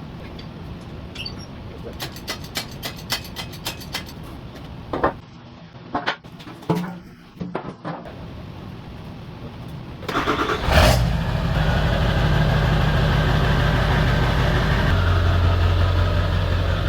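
Scattered clicks, knocks and rattles, then about eleven seconds in a truck engine starts and runs steadily. A few seconds later its pitch drops as it settles into idle.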